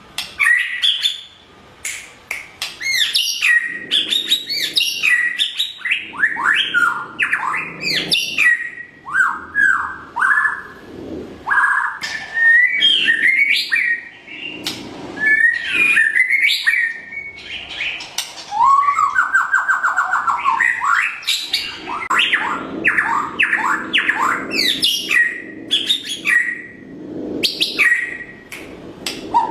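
White-rumped shama singing a continuous, varied song of whistled phrases and quick sweeping notes, broken by short pauses, with a fast trill about two-thirds of the way through.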